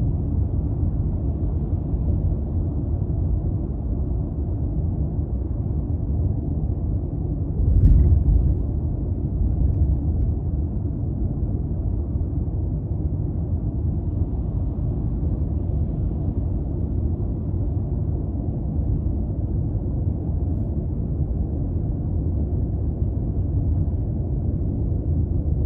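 Driving noise from a 200-series Toyota Crown Athlete with its 2.5-litre V6 at road speed: a steady low rumble of engine and tyres, with a single short thump about eight seconds in, like the car going over a bump or joint in the road.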